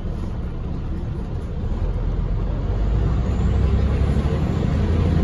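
Scania OmniLink I articulated bus heard from inside the cabin, its engine and road noise running steadily and growing louder from about halfway through as the engine works harder.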